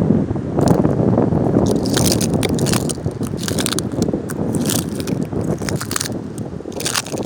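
Wind buffeting the microphone by the sea, a loud rumbling rush, with short hissing bursts coming every second or so.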